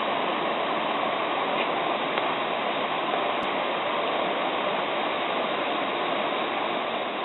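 Shallow mountain stream babbling over rocks, a steady rush of flowing water.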